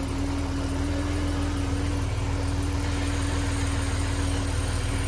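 Mercedes 280SE engine idling steadily while still warming up after a cold start, heard from the front of the car. It is an even low drone with a steady hum above it.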